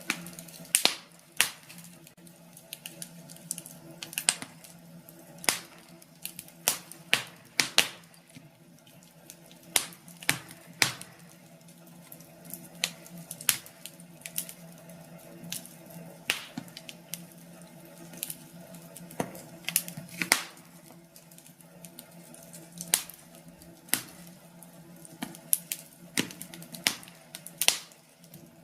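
Wood fire crackling in a fireplace: irregular sharp pops and snaps, a few each second, some much louder than others.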